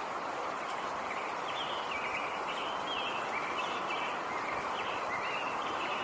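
Nature ambience: a small bird chirping in quick, repeated short calls over a steady rushing background hiss. The chirps start about a second and a half in.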